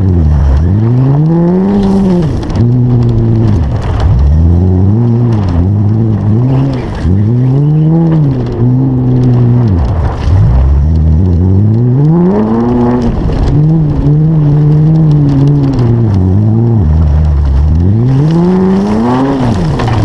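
V6 engine of a Honda Civic hatch being driven hard, revving loudly with its pitch climbing and then dropping again and again.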